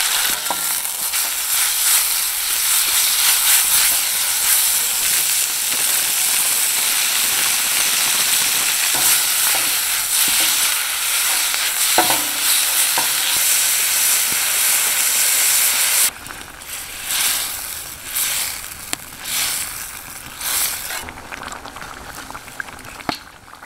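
Meat and vegetables sizzling loudly in a smoking-hot wok while being stir-fried with a ladle, with a few sharp metal clicks of the ladle against the pan. About sixteen seconds in the sizzle drops to a quieter, uneven bubbling and stirring of a thickened sauce.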